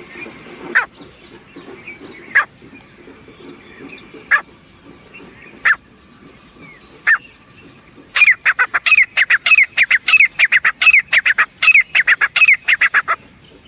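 Grey francolin calling: single sharp notes about every second and a half, then from about eight seconds in a fast run of loud repeated calls lasting about five seconds.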